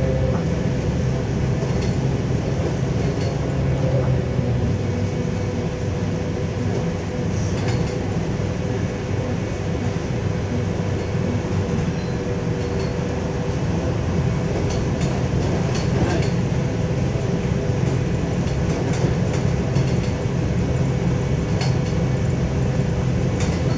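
Cabin noise of a LiAZ-5280 trolleybus under way, with its DK-213 traction motor's steady whine over a low running rumble. A few light clicks and rattles come through now and then.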